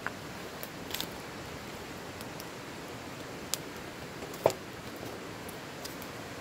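Wood campfire crackling: scattered sharp pops and snaps, the loudest about four and a half seconds in, over a steady hiss.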